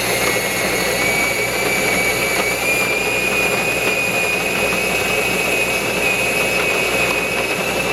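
Jura Capresso Ena 3 coffee machine's built-in burr grinder grinding beans, a steady whirring with a high whine that rises slightly in pitch.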